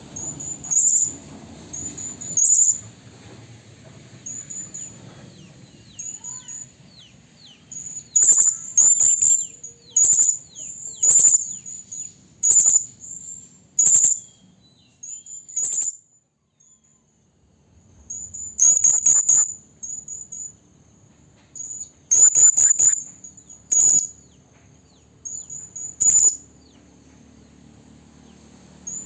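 Serindit (hanging parrot) calling: sharp, very high-pitched shrill notes, singly and in quick runs every second or two, with a brief silence about halfway through. This is a female's calling song of the kind used as a lure call to draw in males.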